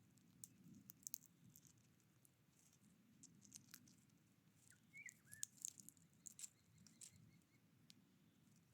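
Small birds pecking and handling seed at a feeder: faint, irregular sharp clicks and taps, with a short faint chirp about five seconds in.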